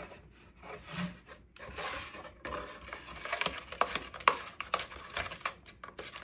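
Moluccan cockatoo chewing and shredding dried rose leaves: an irregular run of dry crackles and sharp clicks, busier in the second half.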